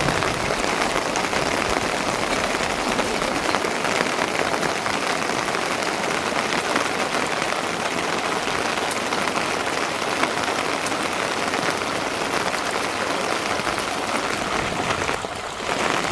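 Steady rain falling, a dense even patter, with a brief lull about fifteen seconds in.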